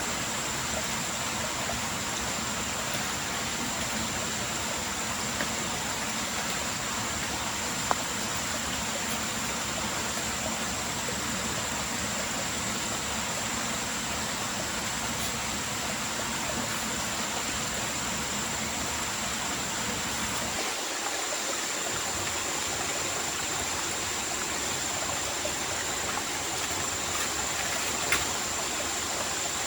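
Steady rushing of water, an even hiss, with a constant high-pitched tone above it. Two sharp clicks come through, one about a quarter of the way in and one near the end.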